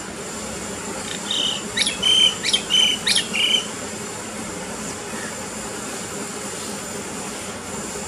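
A bird calling, a short run of sharp, high notes between about one and three and a half seconds in, over a steady high-pitched insect drone.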